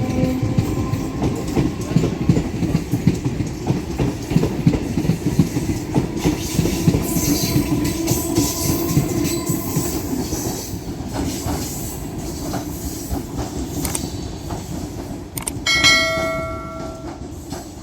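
Electric multiple-unit local train running past, a steady rumble with wheels clattering over rail joints, fading toward the end. A short horn blast sounds near the end.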